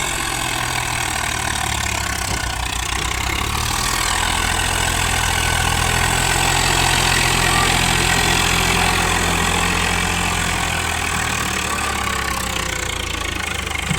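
Large diesel engine running steadily under a moderate load, swelling slightly in the middle and easing off towards the end.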